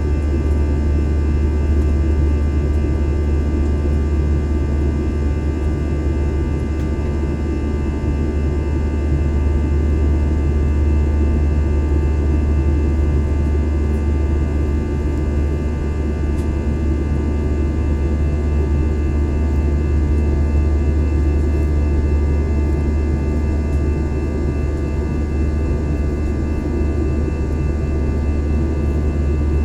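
Steady jet airliner cabin noise in flight: a loud, even, deep rumble with a few faint steady whining tones above it.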